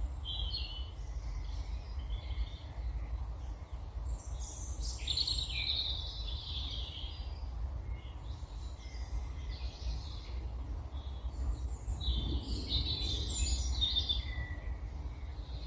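Wild songbirds singing in bursts of warbling phrases every few seconds, the longest about 4 to 7 seconds in and again 12 to 14 seconds in, over a steady low rumble.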